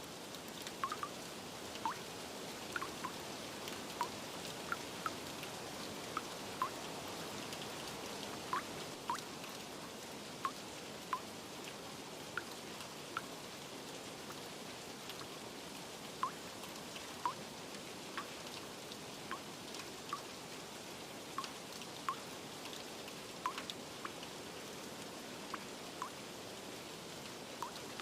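Steady rain hiss with irregular water drops plinking, roughly one a second.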